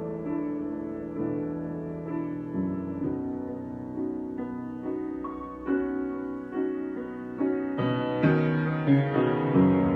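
Piano improvisation: slow sustained chords moving from one to the next about once a second, getting louder and fuller toward the end.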